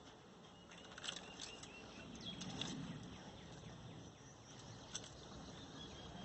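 Faint bird chirps and short calls: a few about a second in, a cluster around two to three seconds, and one near five seconds, over quiet outdoor background.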